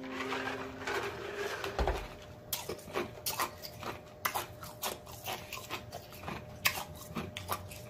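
Close-miked drinking from a mug, with swallowing for about the first second and a half and a low thump about two seconds in. After that comes steady chewing with frequent wet lip-smacking and mouth clicks, irregularly spaced.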